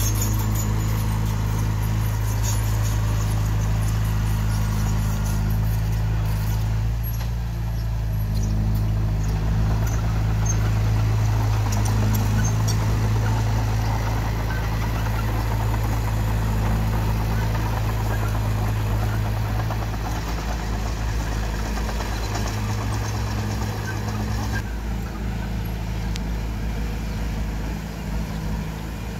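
Diesel engine of earthmoving machinery running steadily, a low drone that shifts slightly in pitch and load a couple of times.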